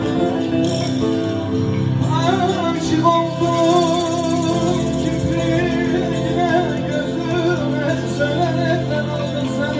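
Live Turkish folk song: a singer's voice with heavy vibrato comes in about two seconds in, over a steady plucked-string accompaniment.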